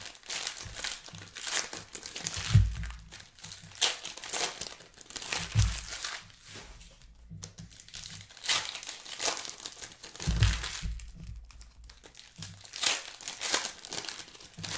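Plastic trading-card pack wrappers crinkling and tearing as packs are handled and opened, in irregular rustling bursts. Dull low thumps come about two and a half, five and a half and ten and a half seconds in.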